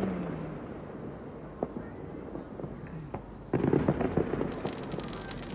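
Distant fireworks popping and crackling. A sudden louder volley of pops and crackle begins about two-thirds of the way in.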